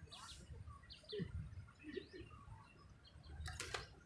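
Faint birdsong: scattered short chirps and calls, with a brief rush of noise about three and a half seconds in.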